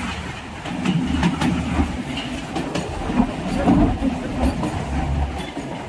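Kalka–Shimla narrow-gauge rail motor car running along the track: a steady low rumble with irregular clicks and knocks from the wheels and rail joints.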